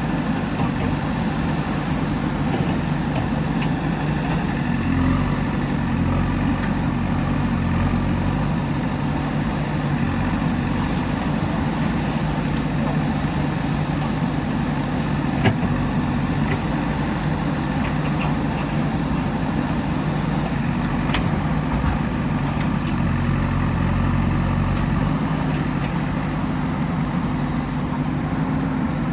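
The diesel engine of a JCB 3DX backhoe loader runs steadily, with a couple of sharp metallic knocks about halfway through.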